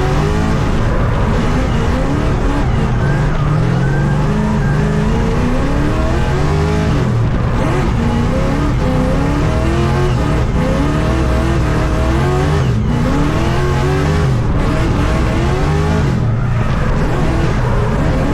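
LS V8 engine in a BMW E82 drift car on track, its revs climbing and dropping again and again as the throttle is worked through a drift lap, with tire squeal.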